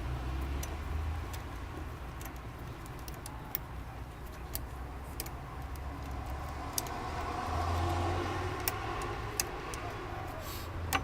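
Scattered small metallic clicks and ticks of a skate tool and screwdriver tightening the nuts on a longboard truck baseplate, over a steady low rumble that swells about two-thirds of the way through.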